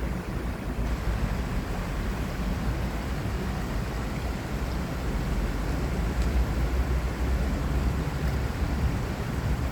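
Steady city ambience with a low rumble that keeps rising and falling slightly, mostly in the bass, from traffic, flowing water and wind.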